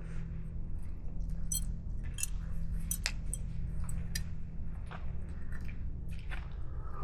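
Scattered light clinks and taps of hard objects, a dozen or so at uneven intervals, over a steady low hum.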